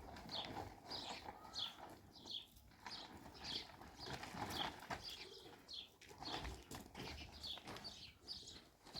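Small birds chirping over and over, short falling chirps about two a second.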